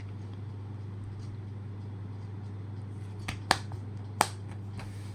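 Three sharp plastic clicks from handling a DVD case and disc, over a steady low electrical hum.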